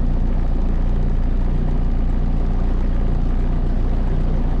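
Motorboat engine running steadily with a low hum, under an even rushing noise.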